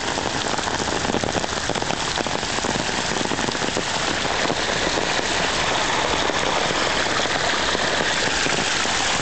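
Heavy rain falling in a steady downpour, with dense pattering of drops striking an umbrella close overhead.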